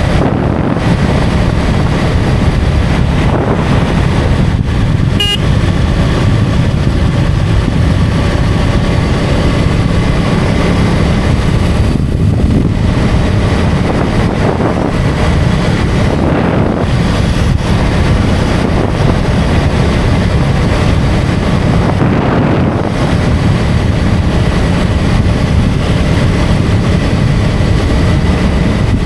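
KTM Duke 250's single-cylinder engine running steadily under way, mixed with heavy wind rush on the microphone and road noise.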